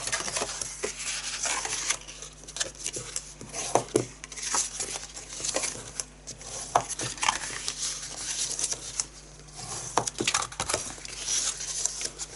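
Card stock being folded along its score lines and burnished with a bone folder: irregular papery rubbing and scraping with light taps.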